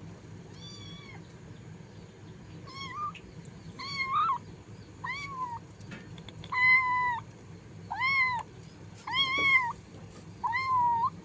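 Domestic cat meowing over and over, about eight meows roughly a second apart. The first is faint and the later ones louder.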